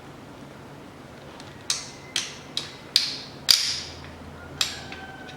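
Torque wrench set to 24 N·m clicking as bolts are tightened on the engine: six sharp metal clicks, five about half a second apart and one more a second later.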